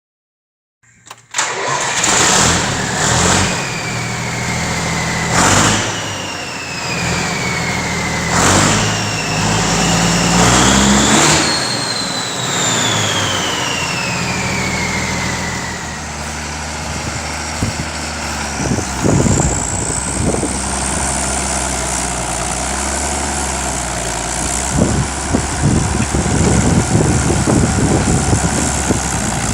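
Case International 1455 tractor's turbocharged diesel engine starting about a second in and being revved several times. A loud turbo whistle falls slowly in pitch after each rev, the longest fall after the last big rev. Later the whistle rises again while the engine keeps running.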